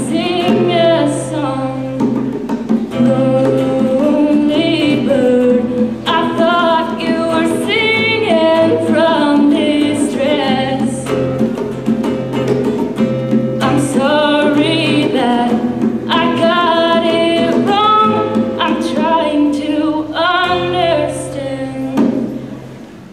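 Sung voices with acoustic guitar accompaniment, held notes and melody running over steady strummed chords. The song winds down and the music fades out about a second before the end.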